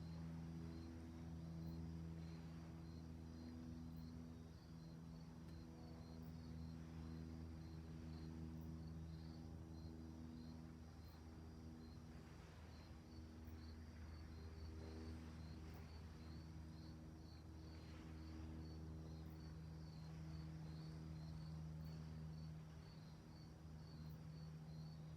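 Crickets chirping in a steady, even rhythm, about two chirps a second, faint, over a low steady hum.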